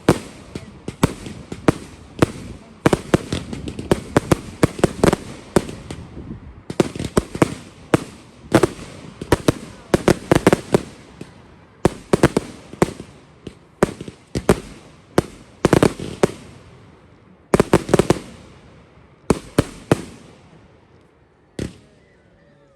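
Fireworks display: rapid volleys of sharp bangs and crackles, with short pauses between salvos, thinning to a few single bangs near the end.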